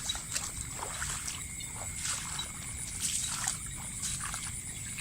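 Water trickling and splashing in irregular small strokes, over a steady high-pitched insect drone.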